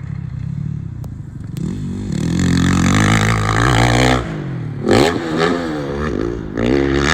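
An engine revving, climbing in pitch, then dropping off sharply about four seconds in, before revving up and down unevenly again.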